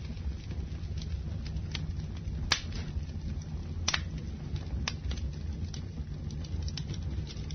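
Campfire burning: a steady low noise of the flames with scattered sharp crackles and pops, the loudest about two and a half seconds in.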